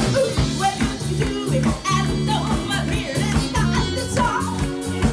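A live rock band playing, with a drum kit keeping a steady beat under bass, electric guitar and a singing voice or saxophone line.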